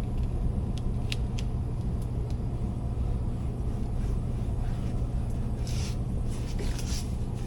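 Steady low hum of a running air-conditioning air handler, with a few sharp light clicks about a second in and a brief rustle near six seconds, from handling a filter and panel.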